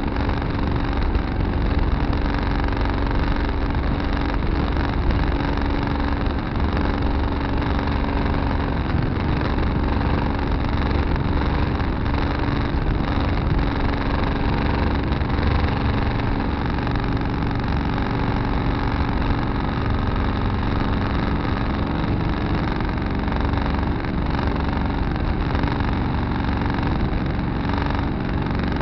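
Tractor engine running steadily at an even speed, its pitch holding constant.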